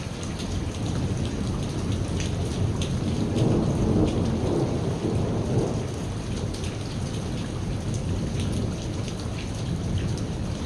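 Steady heavy rain with a low rolling rumble of thunder that swells a few seconds in and fades after about two seconds, over a constant patter of raindrops.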